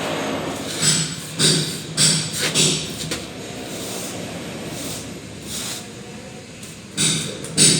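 Plastering trowel scraping mortar on a wall in short strokes about half a second apart, pausing midway and starting again near the end.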